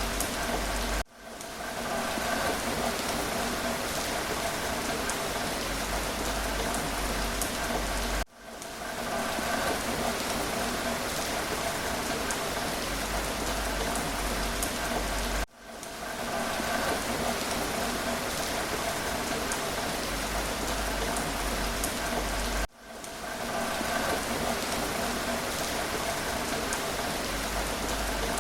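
Steady rain falling and pattering on a surface, with faint scattered drop ticks. The rain sound dips sharply and swells back about every seven seconds, four times.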